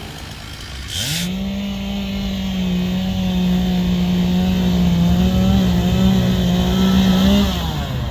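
Chainsaw engine revved up about a second in and held at a steady high-pitched full throttle for about six seconds, then dropping back near the end.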